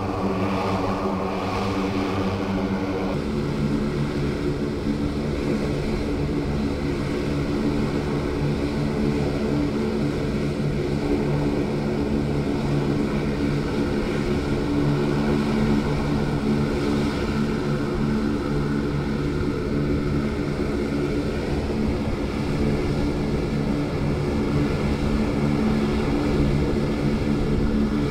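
Propeller aircraft engines running steadily, a constant drone with a high whine above it; the pitch shifts slightly about three seconds in.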